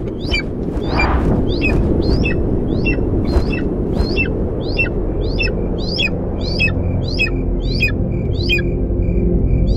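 A bird calling in a long, even series of short, falling chirps, a little under two a second. Toward the end a faint pulsing high tone joins in.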